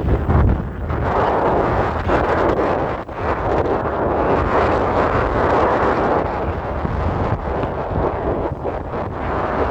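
Wind buffeting the microphone over a steady rush of ocean surf, with the low rumble of gusts heaviest in the first second.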